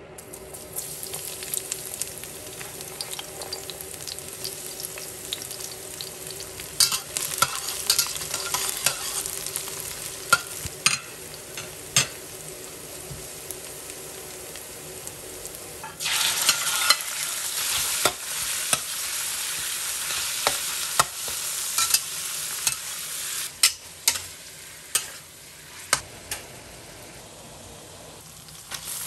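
Food sizzling in a hot pan as it is stir-fried, with a spatula clicking and scraping against the pan many times. The sizzle grows louder about halfway through and eases off near the end.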